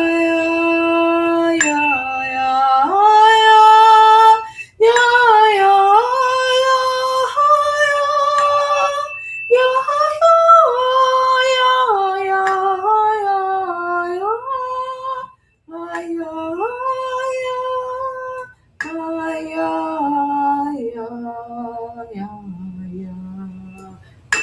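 A woman sings long held vowel tones, each note sustained for a second or two before stepping to another pitch, with a few short breaths between phrases. At times a tuning fork rings a steady high tone under the voice.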